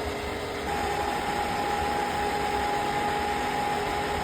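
8-inch exhaust fan running: a steady rush of air with a hum, and less than a second in a higher-pitched hum joins and the sound gets a little louder.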